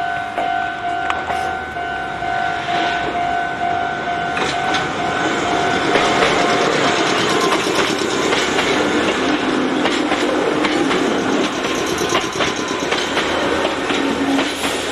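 A red Meitetsu Seto Line electric train approaching and passing close by, its wheels clacking over the rail joints, growing louder from about four seconds in. A level-crossing warning bell rings with an evenly repeated tone in the first half until the train noise buries it.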